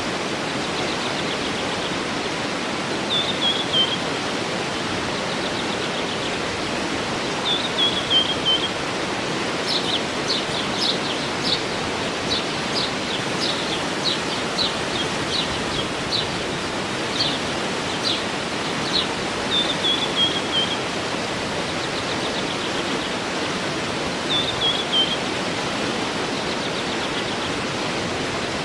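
Steady rushing of a waterfall, with a songbird repeating a short falling phrase every few seconds. Through the middle a run of sharp, separate chirps comes about one to two a second.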